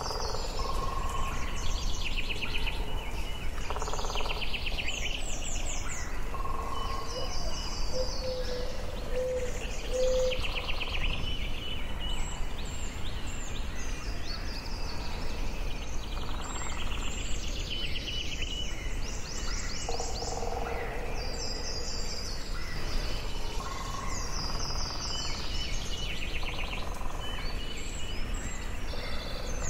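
Several birds singing in a forest, short trilled and chirping phrases from different birds overlapping every second or two, with a few lower whistled notes, over a steady background hiss.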